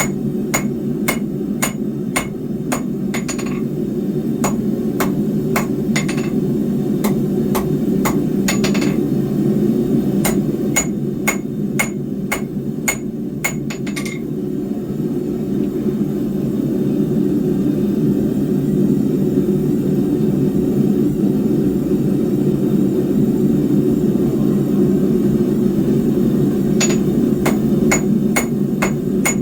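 Blacksmith's hammer striking hot steel bar on an anvil, about two blows a second with a bright metallic ring, as 3/8-inch square bar is forged into spikes. The blows stop about halfway through and resume a couple of seconds before the end, over a steady low roar.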